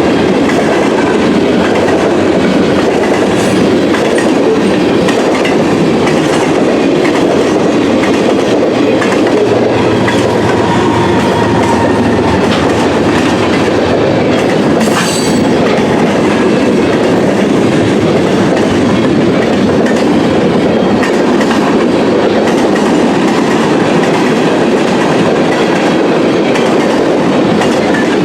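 Train cars rolling past, a loud, steady clatter of steel wheels over the rails.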